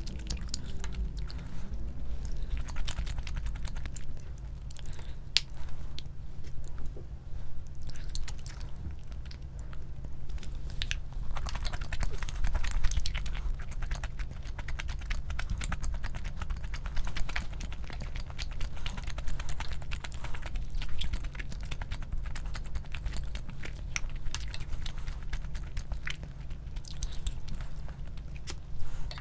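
Close-miked eating: chewing and biting, with a dense run of small sharp clicks and crackles, over a steady low hum.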